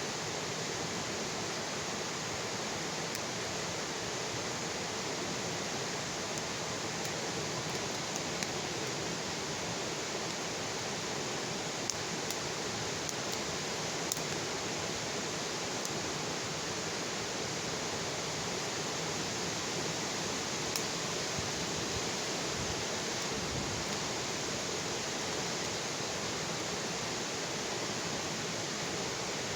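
Wood bonfire burning: a steady hiss with a few sharp pops from the wood scattered through it.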